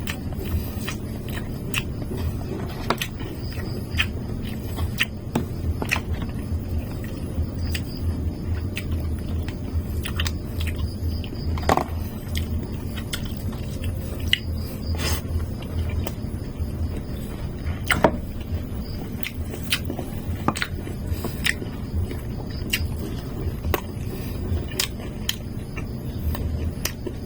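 Close-up chewing and biting sounds of someone eating fried chicken and chop suey, with many short wet clicks from the mouth and utensils, a few louder than the rest. A steady low hum runs underneath.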